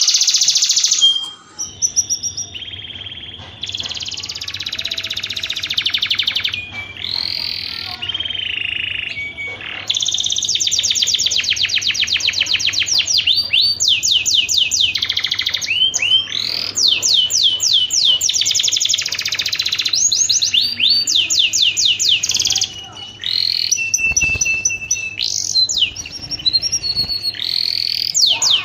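Domestic canary singing a long, loud song made of fast trills: each run of rapidly repeated high notes gives way to the next, with short pauses between some runs. A faint steady hum lies underneath.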